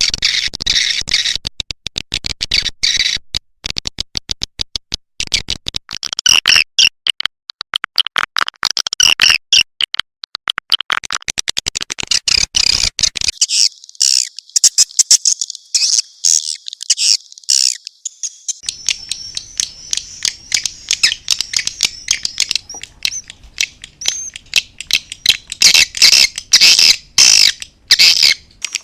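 Edible-nest swiftlet calls: high-pitched, rapid chattering twitters and clicking trills in dense bursts. This is a recorded lure call played to attract swiftlets into a nesting house.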